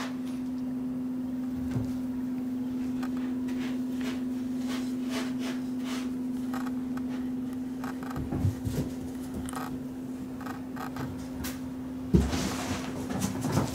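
Kittens scampering and playing: scattered light knocks, thumps and scuffles, denser near the end, over a steady electrical hum.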